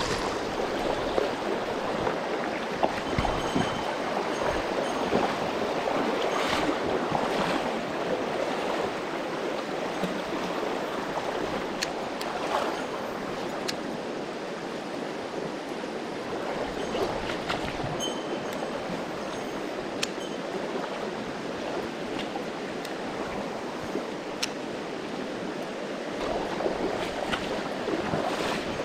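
Steady rush of a mountain stream's flowing water, with a few faint clicks now and then.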